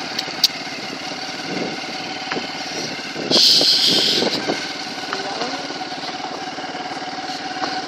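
Motorcycle engine running steadily under way. About three seconds in there is a loud hiss lasting about a second.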